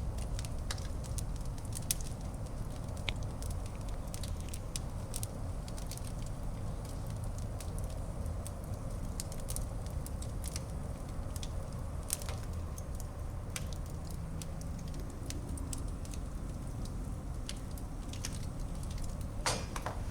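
Wood fire burning in a fireplace: a steady low rumble of flame with scattered sharp crackles and pops, a quick cluster of pops near the end.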